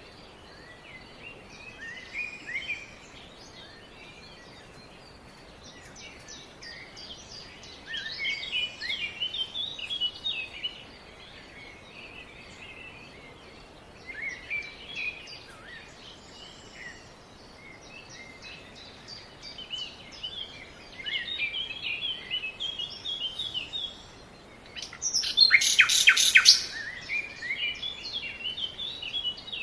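Various small birds chirping and calling in bouts of quick, high chirps over a faint background hiss. A loud burst of rapid chirps comes near the end.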